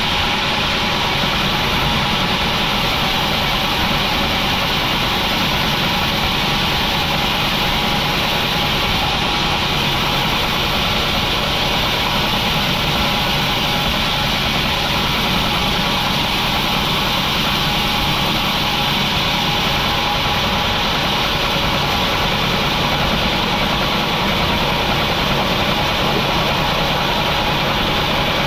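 Sawmill machinery running with a steady engine-like drone that holds even, with no sudden changes.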